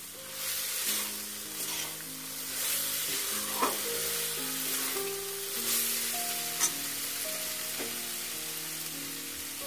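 Soya chunks and broccoli frying in a metal kadai, a steady sizzle as a slotted spatula stirs the nearly dry mix, with a few sharp clicks of the spatula against the pan. Soft background music of held notes plays over it.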